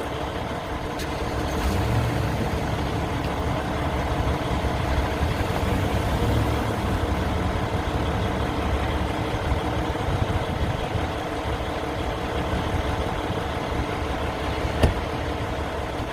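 Semi-truck diesel engine running steadily, with a faint click about a second in and another near the end.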